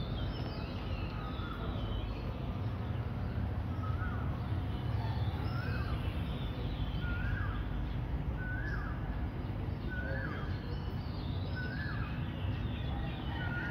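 A bird calling over and over, one short call about every second and a half from about four seconds in, with fainter, higher chirps from other birds, over a steady low background rumble.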